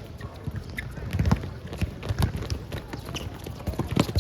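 Basketball bouncing and players' feet running on the court: a string of irregular dull thumps and sharp clicks.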